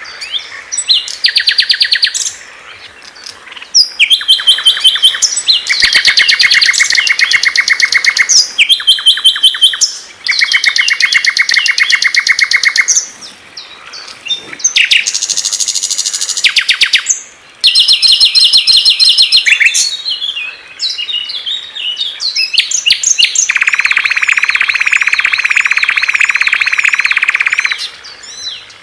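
Small songbirds singing loudly: one high-pitched phrase of fast repeated notes and trills after another, each a second to a few seconds long, with short pauses between them.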